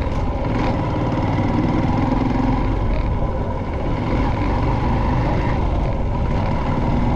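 Motorcycle running at a steady speed on a ride, with engine and road noise.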